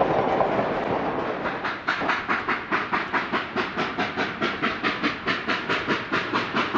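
Narrow-gauge steam locomotive working, with a steady hiss that gives way about a second and a half in to rhythmic exhaust chuffs, about four a second.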